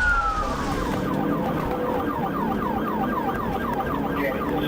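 Police car siren: a long falling wail that breaks into a fast yelp, about four sweeps a second, over steady road and engine noise.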